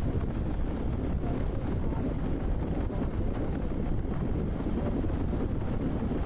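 Wind buffeting the microphone on a moving off-road motorcycle: a steady low rumble, with the bike's engine running underneath.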